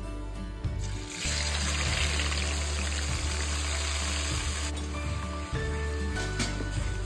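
Spiced curd mixture hitting hot oil in a pan and sizzling loudly, starting about a second in and cutting off suddenly after about four seconds.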